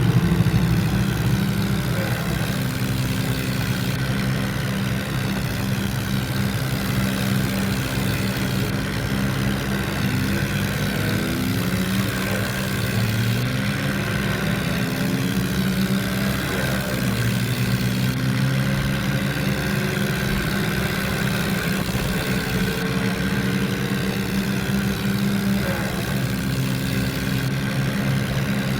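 John Deere tractor's diesel engine running steadily, its pitch rising and falling for a while in the middle as the revs change.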